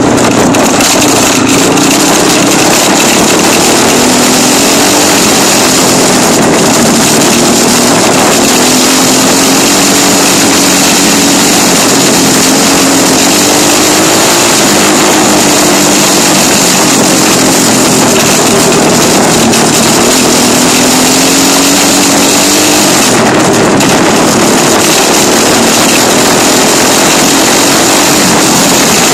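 Dirt bike engine running under way, its pitch rising and falling slowly as the throttle changes. It is buried in loud, rushing wind noise on the microphone.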